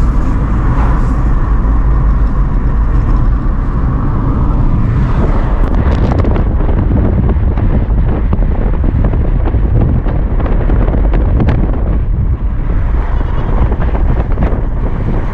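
Road noise of a moving car: a steady low rumble with wind buffeting the microphone. About five seconds in it turns rougher, with a few short knocks.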